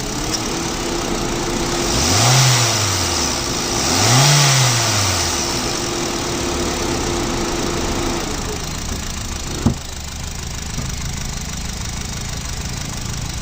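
Honda City car engine idling and revved twice, each rev rising and falling back to idle, about two and four seconds in. A single sharp click comes about two-thirds of the way through.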